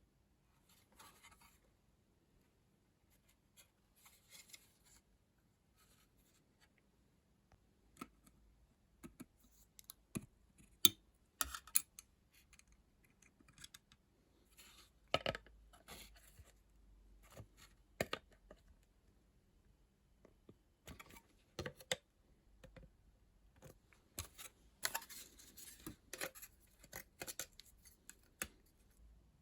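Scattered clicks, scratches and rustles of small objects being handled, in irregular short bursts with quiet gaps between.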